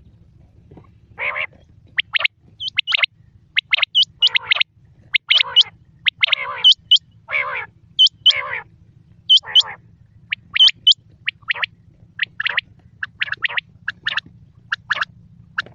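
Quail calling: short, sharp, high whistled notes, often in quick twos and threes, mixed with longer harsh, raspy calls through the first two-thirds. A faint steady low hum runs underneath.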